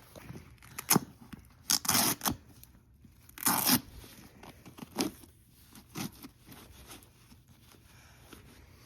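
Short bursts of tearing and rustling, the loudest about two and three and a half seconds in, then a few fainter ones: a cleaning wipe being pulled free and used.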